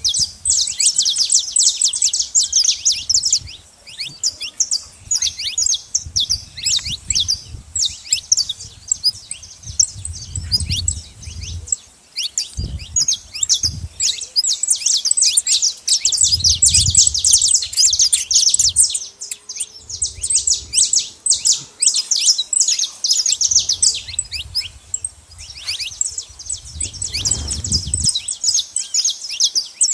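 Saffron finches at a feeding spot calling in dense, rapid high chirps, with a few short breaks and a few low rumbles now and then.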